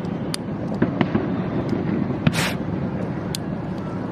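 Aerial fireworks display: scattered sharp cracks and pops over a steady rumble of bursts, with a short hiss about two seconds in.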